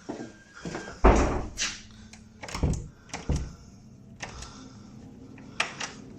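A door thuds shut about a second in, followed by several lighter knocks and clicks, echoing in a small room.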